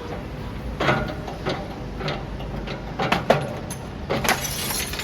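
Demolition machinery running steadily, with irregular sharp knocks and crunches of rubble being broken and shifted, about five of them, and a rattling of debris near the end.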